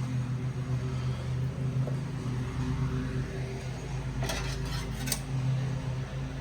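An engine oil dipstick clinking against its metal tube as it is handled: a short cluster of metallic clinks about four seconds in, over a steady low hum.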